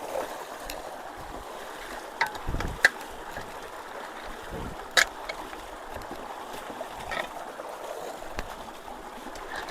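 Creek water running steadily around and over the top of a culvert that is not draining, with a few sharp clicks and knocks, the loudest about five seconds in.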